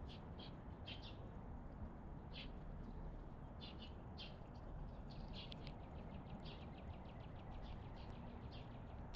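Small songbirds chirping at a feeding spot: short, scattered high chirps, with a quick trill of notes about five seconds in, over a faint low background hum.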